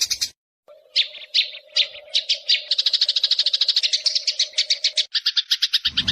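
Recorded bird tutor song (masteran): a rapid, high-pitched chirping trill that breaks off briefly just after the start, then restarts as separate chirps that speed up into a fast, even trill of about ten notes a second, over a faint steady hum.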